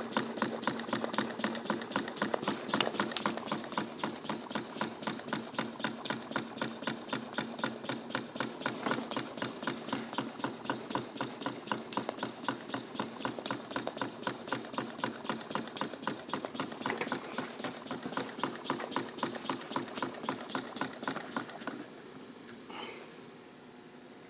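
Homemade model steam engine running on live steam, its exhaust beating in a fast, even rhythm with a steam hiss. The beats stop near the end, leaving a faint hiss.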